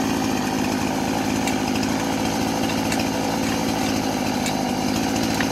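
Gas chainsaw engine running steadily at an even pitch, neither revving up nor dying.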